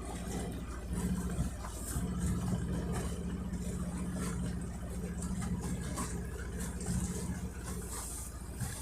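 Boat engine running steadily at an even, low pitch.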